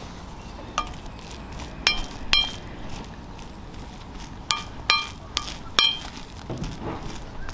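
Utensils clinking against cookware: about six separate sharp clinks, each ringing briefly, at irregular intervals.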